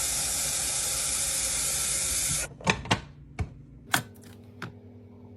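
Water running from a tap into the Keurig K-Express's water reservoir, a steady hiss that stops abruptly about two and a half seconds in. A few clicks and knocks follow, over a faint low hum.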